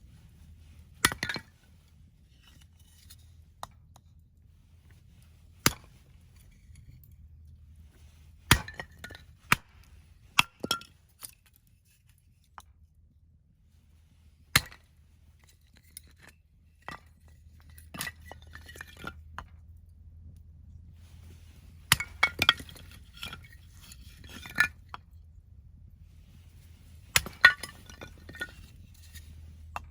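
A Husqvarna axe striking and splitting firewood: about a dozen sharp cracks at irregular intervals, several followed by a brief clatter of split pieces.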